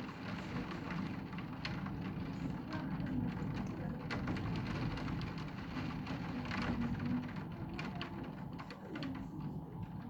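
Heavy thunderstorm rain: a steady rush with many sharp drips and splashes close by, over a constant low rumble.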